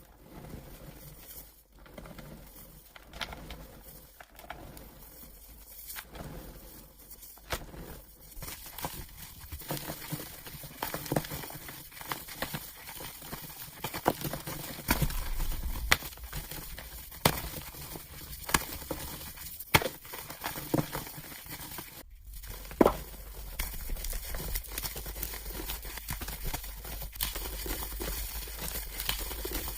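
Blocks of gym chalk being crushed and crumbled, making many irregular crunches and sharp cracks, played back at double speed.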